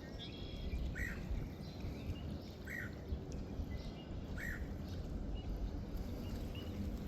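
Wild birds calling by the river: one short call repeats three times, about a second and a half to two apart, with a brief higher trill at the start and fainter notes later, over a steady low rumble.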